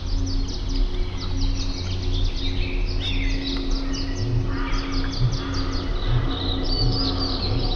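Small birds chirping and trilling in quick, overlapping calls, over a steady low hum.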